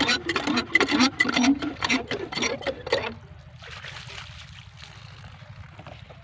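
Talking over the steady, low, even beat of a Kirloskar diesel water-pump engine running. The voice stops about three seconds in, leaving the engine and a faint steady hiss.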